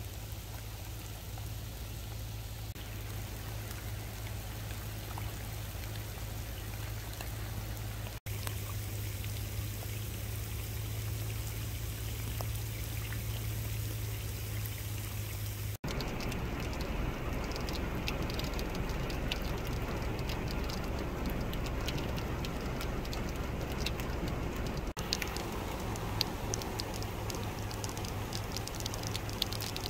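Rain falling steadily onto wet dirt and muddy puddles over a low steady rumble. After about the middle it is fuller, with many sharp individual drop ticks.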